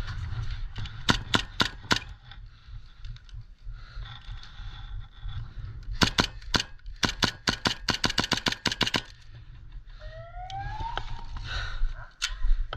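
Airsoft guns firing sharp cracking shots: a few spaced shots about a second in, then a rapid string of shots from about six to nine seconds in. A short rising call follows near the end.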